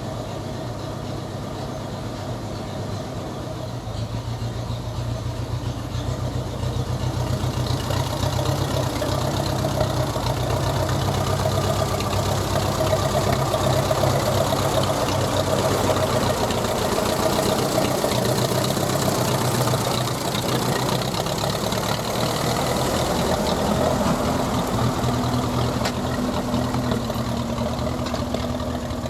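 Ferguson TED-20 tractor's four-cylinder engine running on petrol, getting louder about four seconds in and again at eight, then easing slightly near the two-thirds mark. The engine is worn: the liners need replacing, it burns some oil, and the carburettor is slow to answer load.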